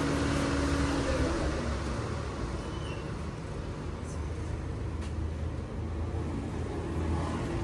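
Honda Civic running with a steady low rumble, and a steady hum that stops about a second in.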